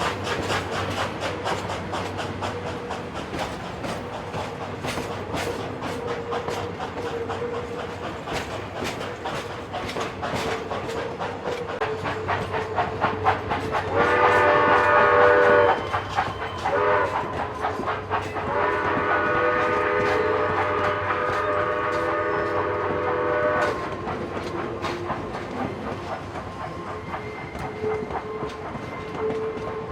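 Passing passenger train with its wheels clicking steadily over rail joints. About halfway through, the locomotive sounds its chord whistle: a long blast, a short toot, then a longer blast of about five seconds.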